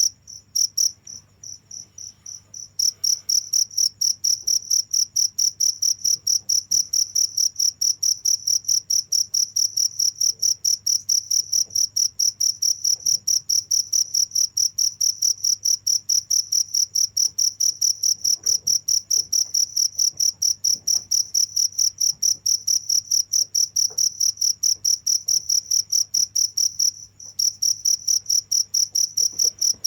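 Cricket chirping steadily: a high, rapid, evenly spaced trill of pulses. It drops away briefly near the start and again near the end before resuming.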